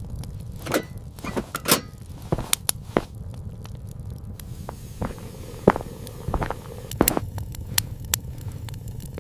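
Irregular crackles and snapping clicks, about a dozen at uneven intervals, over a steady low rumble.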